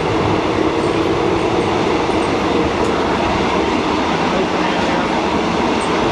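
Steady running noise inside a moving old passenger train carriage: the wheels on the rails and the carriage in motion, loud and even throughout.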